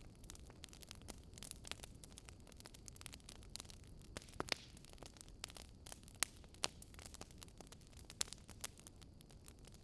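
Wood fire crackling in a fireplace: irregular sharp pops and snaps over a soft, steady rumble of burning, with a few louder pops in the middle and later part.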